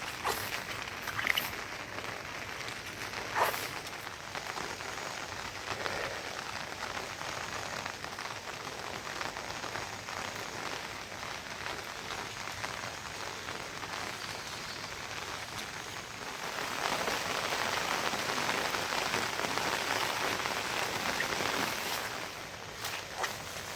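Steady rain falling, with a few louder drops or taps in the first few seconds; the rain grows heavier for several seconds past the middle, then eases near the end.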